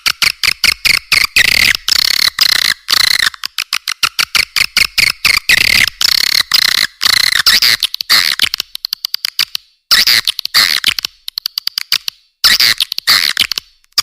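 Swiftlet calls used as a lure for swiftlet farming: rapid, dense, high-pitched chattering chirps, with short breaks about ten and twelve seconds in.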